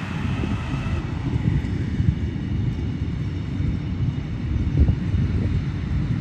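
Train at a station, rumbling low and unevenly; a faint high whine from it fades out within the first second.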